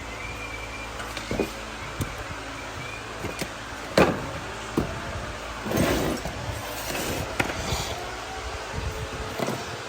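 Parts and tools being cleared off a workbench: scattered knocks and clunks over a steady shop hum, the loudest one about four seconds in, with a short scraping rustle around six seconds.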